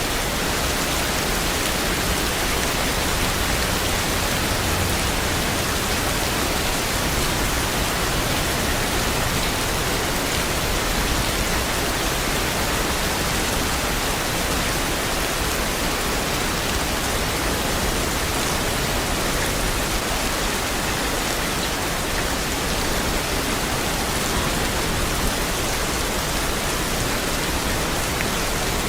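Steady, dense rain falling without a break, an even hiss.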